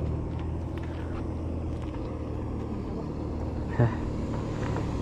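An engine running steadily at an even pitch, with one short thump about four seconds in.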